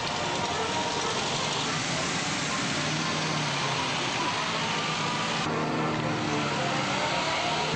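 Classic car engines running with road noise, steady throughout, with an abrupt change in the sound about five and a half seconds in.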